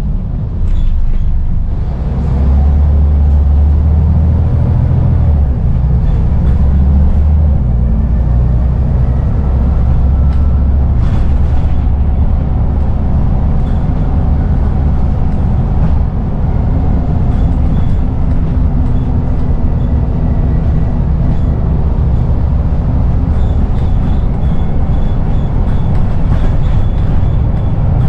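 Scania N94UD double-decker bus under way: the diesel engine and running gear drone steadily, with rattles and knocks from the body. The drive eases briefly just under two seconds in, then the low engine note pulls strongly again.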